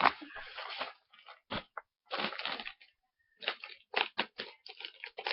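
Packaging crinkling and rustling as it is handled, in irregular short bursts.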